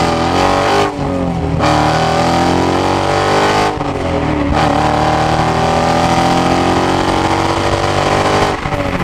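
Dodge Challenger's 5.7 Hemi V8 revving up in three long pulls, the pitch climbing each time and dropping back briefly between them.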